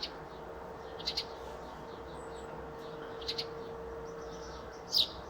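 Bird chirping: short high chirps, some doubled, about four times, the last near the end the loudest, over a steady faint hum.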